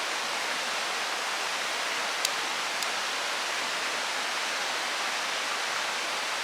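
Mountain river rushing steadily over rocks, a constant even water noise. Two short, sharp clicks sound about two and three seconds in.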